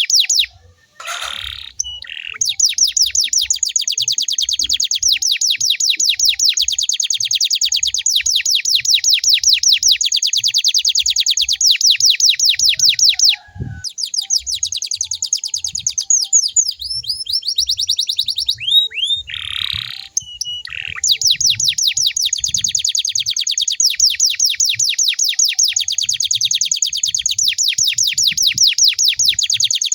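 Domestic canary singing long, fast trills of rapidly repeated high notes. Near the middle the trill breaks off briefly and turns into a run of falling whistled glides before the fast trill resumes.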